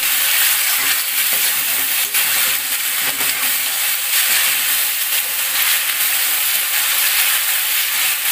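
Chopped onion, tomato and green chilli sizzling in hot oil in a steel kadai, stirred with a metal spatula that scrapes against the pan now and then.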